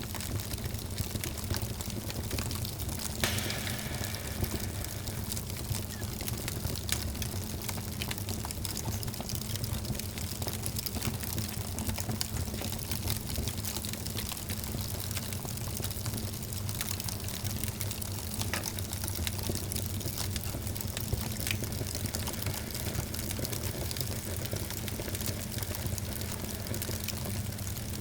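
Wood fire crackling in a fireplace: many small pops and snaps over a steady low rumble of the flames, with one louder pop about three seconds in.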